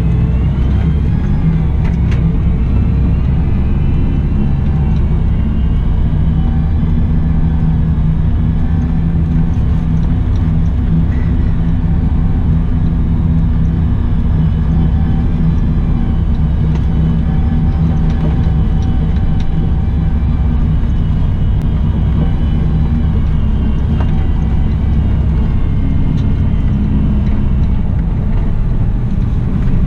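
Cat 972M XE wheel loader's diesel engine running steadily under work, with a faint whine that rises and falls now and then.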